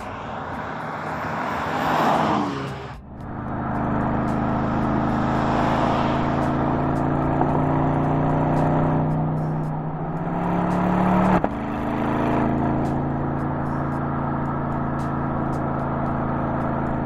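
Porsche Panamera 4 E-Hybrid passing with a swelling and fading whoosh. Then its 2.9-litre twin-turbo V6 pulls steadily, the engine note climbing slowly until it drops sharply at an upshift about eleven seconds in, then holding even.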